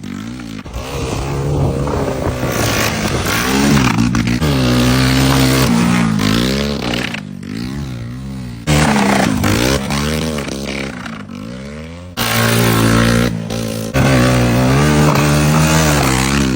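Dirt bike engine revving up and down repeatedly under throttle, its pitch rising and falling, with abrupt jumps in loudness between passes.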